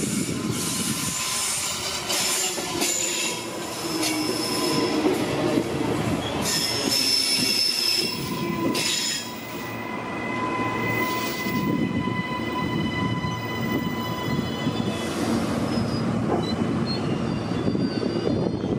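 Electric multiple-unit passenger train passing close alongside a platform: a steady wheel-and-rail rumble with clicks from the wheels over the rail joints, and a steady high-pitched whine that carries through.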